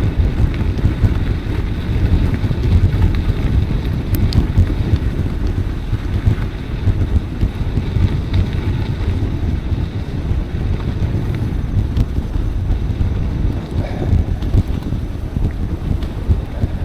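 Wind buffeting the microphone of a camera on a moving bicycle: a steady low rumble that flutters in level, with a couple of faint clicks.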